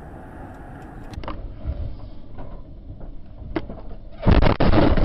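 Car road noise, a steady low rumble with a few light knocks as heard by a dash camera, then a sudden loud noisy burst a little after four seconds in.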